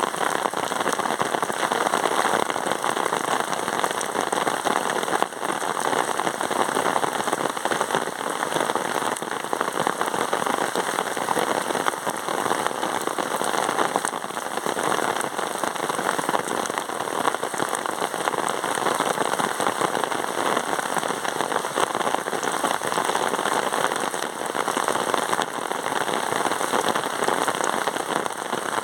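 Steady rain: a dense, even hiss of many small drops.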